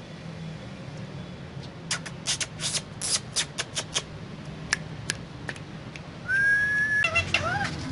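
Indian ringneck parrot making a quick run of about ten short, sharp clicking calls. A little past six seconds it gives a long, steady whistle that rises slightly, then a few short whistled notes that bend up and down.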